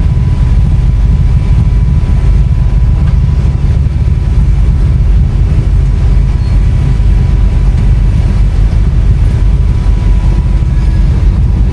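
Off-road 4x4 engine running at low revs during a slow crawl, a loud steady deep rumble with a faint constant whine above it.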